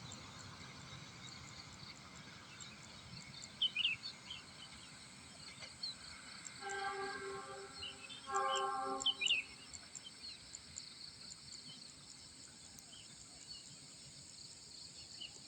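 Trackside ambience after a train has passed: insects trill steadily and birds chirp now and then, while the last of the train's rumble fades at the start. In the middle come two short horn toots.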